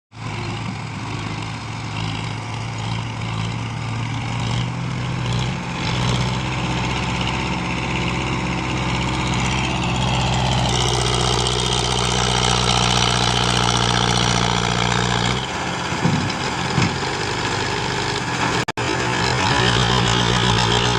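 Tractor diesel engine running steadily under load while pulling a fully loaded trolley uphill. It grows louder and fuller about halfway through, wavers briefly a few seconds later, and breaks off for an instant near the end.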